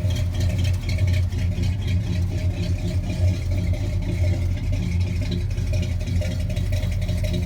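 Square-body Chevy 3500 dually's 350 small-block V8 idling steadily while still cold; the owner doubts it will stay running at idle.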